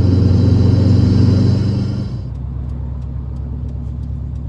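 2007 Subaru Impreza WRX STI's turbocharged 2.5-litre flat-four pulling hard under boost. About two seconds in it backs off and drops to a quieter, low engine note.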